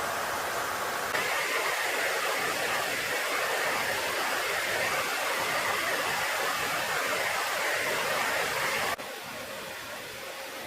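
Steady rushing noise with no pitch or rhythm. It gets louder about a second in and drops off abruptly about nine seconds in.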